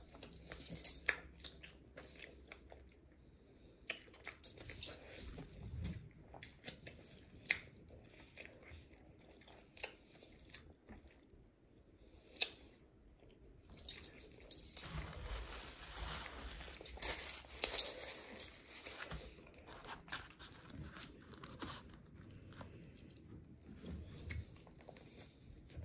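Close-up chewing of a Big Mac and McDonald's fries, with scattered sharp mouth clicks. A busier stretch of noise comes about fifteen to eighteen seconds in.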